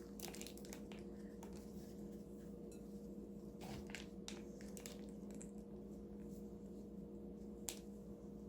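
Quiet handling of plastic egg moulds packed with a birdseed mix: faint scattered clicks and rustles over a steady low electrical hum.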